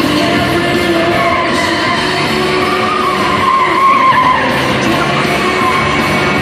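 Stunt cars skidding with tyres squealing and engines running, over loud music; the squeal rises and wavers around the middle.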